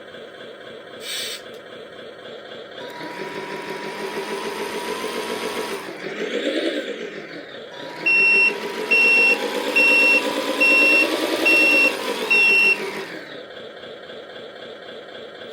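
Simulated truck diesel engine sound from an R/C truck's sound unit, revving up and down. It is followed by a reversing alarm that beeps six times, evenly spaced, over the running engine sound.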